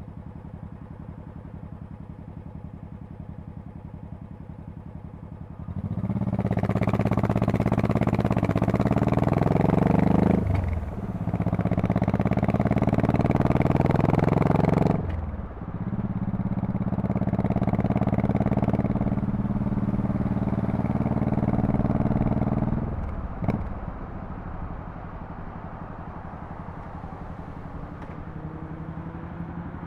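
Honda Shadow Spirit VT1100C's V-twin exhaust rumbling low. About six seconds in it pulls away under throttle, the pitch climbing and breaking twice at gear changes. It holds a steady cruise, then falls back to a low rumble near the end.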